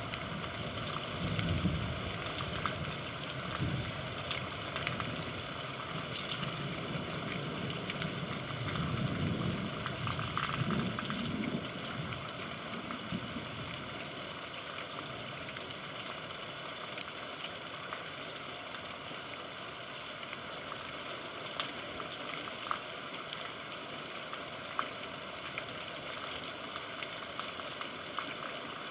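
Steady rain falling, an even hiss with scattered louder drops. Low rumbles of distant thunder swell and fade through roughly the first half, then only the rain remains.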